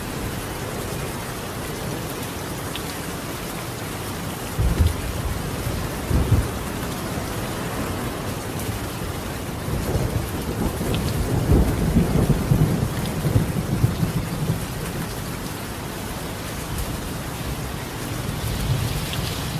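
Steady rain on a tiled roof, with thunder: two short low cracks about four and a half and six seconds in, then a longer rolling rumble from about ten to fifteen seconds.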